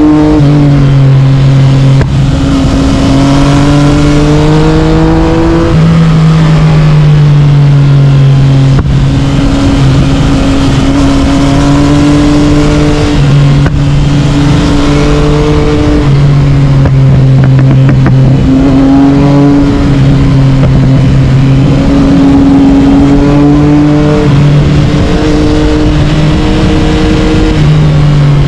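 Yamaha MT-09 inline-three with an Akrapovic carbon exhaust, ridden hard. The engine note climbs under throttle and drops in steps at each gear change, over steady wind and road noise.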